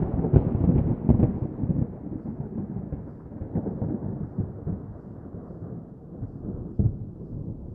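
A roll of thunder: a low, crackling rumble, loudest in the first couple of seconds, then slowly fading.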